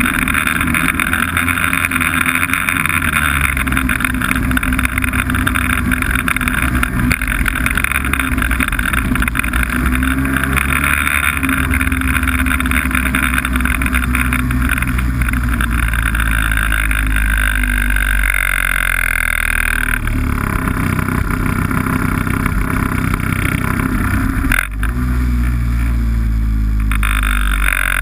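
Snowmobile engine running under way, its pitch falling and rising several times with the throttle, with a short dip in loudness about three quarters of the way through.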